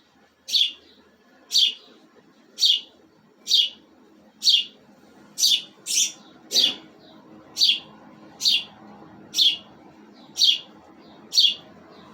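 Small pet bird chirping repeatedly, about one short, sharp chirp a second, each sliding down in pitch.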